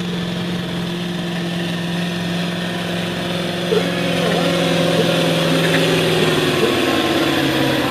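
Farm tractor engine running hard under load, pulling a weighted sled down the track. Its steady note drops lower about three-quarters of the way through.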